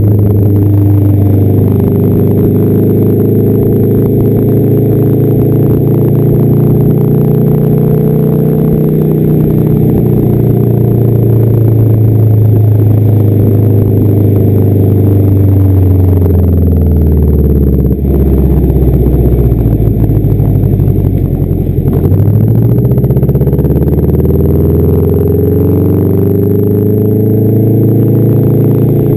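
Straight-piped exhaust of a 1992 Subaru Legacy's flat-four engine, running loud and steady. About two-thirds of the way in its note falls away over a few seconds, then climbs back up near the end.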